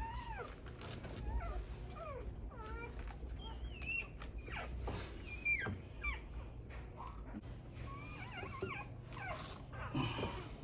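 Newborn American Bully puppies squeaking and whimpering in many short, high cries that rise and fall in pitch, scattered through, over a steady low hum.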